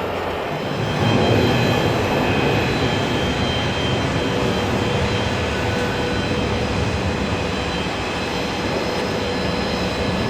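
Business jet's turbofan engines running, a steady rush with a high whine over it, getting louder about a second in and holding.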